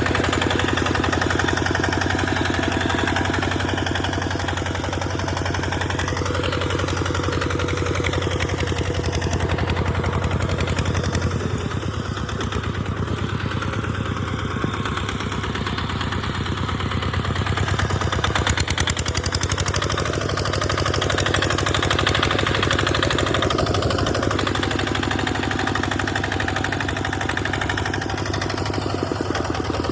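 Tractor engine running steadily as it pulls a plough through sand, its level easing a little about twelve seconds in and then picking up again.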